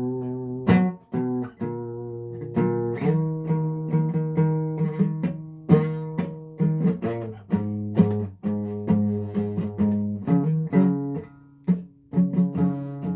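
Guitar strumming chords with no singing, the strokes coming in a steady, rapid rhythm and the chords changing every second or two.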